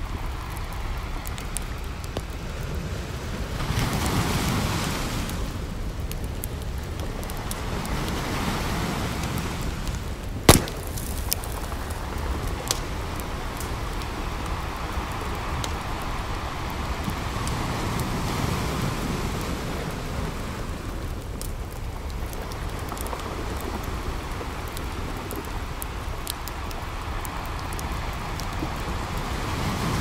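Wood campfire crackling with scattered pops, one sharp, loud pop about a third of the way through, over the steady wash of ocean surf that swells every several seconds.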